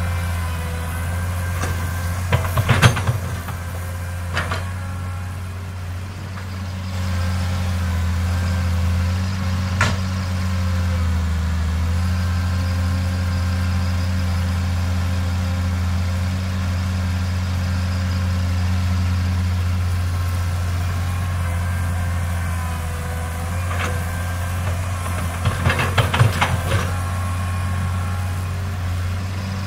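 Diesel engines of a Komatsu excavator and a six-wheel dump truck running steadily, with short clusters of knocking and clatter about two to three seconds in, around ten seconds, and a louder burst near the end.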